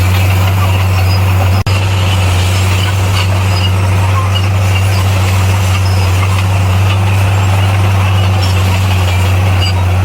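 Bulldozer's diesel engine running steadily with a deep, constant hum, cut by a momentary dropout about a second and a half in.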